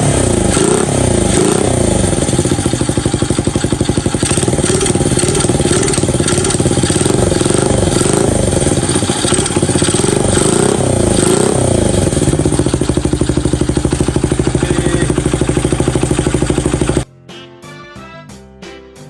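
Honda Ape 50's single-cylinder four-stroke engine running through a freshly fitted Zero Racing Rose aftermarket muffler, revved up and down several times and then idling with an even pulse. Near the end it cuts off suddenly and light music takes over.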